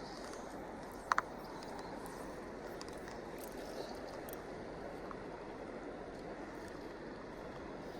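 Steady rush of flowing river water, with a short double chirp about a second in.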